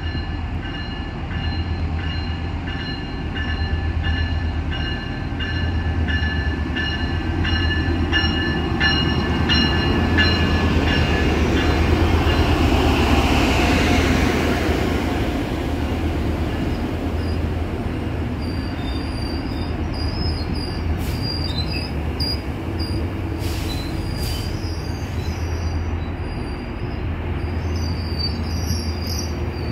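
A locomotive-hauled bilevel commuter train pulling slowly into the station: the locomotive's engine rumbles low and the wheels squeal high and steady. The sound swells to its loudest about halfway through as the locomotive goes by, then the coaches roll past with thinner squeals and a few sharp clicks.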